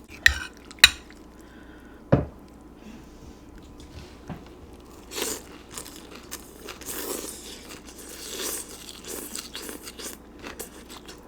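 A metal spoon clicks sharply against the bowl three times, then comes close-up chewing and crunching of a mouthful of pozole topped with shredded lettuce.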